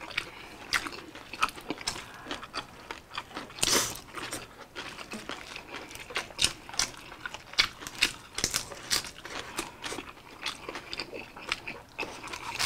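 Close-up chewing and biting into crisp lettuce wraps of grilled pork belly: irregular crunches and clicks, with a longer, louder crunch about four seconds in.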